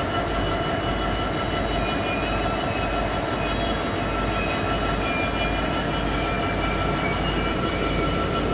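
Stationary diesel train idling: a steady engine rumble with a constant faint whine above it.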